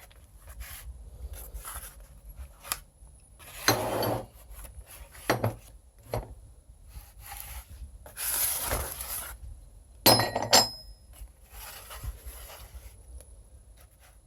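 Metal parts being handled: rubbing and scraping with intermittent clinks, including a couple of sharp metallic clinks about ten seconds in.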